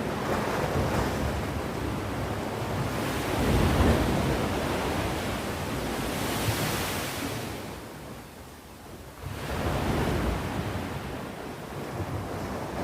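Sea waves breaking and washing on the shore in rising and falling surges of surf. A wave breaks about a third of the way in and its wash hisses just past the middle. After a brief lull, another wave comes in.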